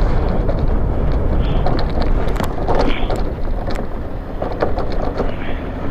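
Wind buffeting the microphone of a moving e-bike, a steady low rumble, with scattered knocks and rattles from riding over rough ground, mostly around the middle.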